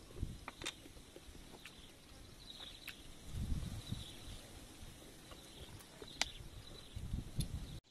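Mouth sounds of someone eating cooked snails: chewing and lip-smacking, with small sharp clicks now and then.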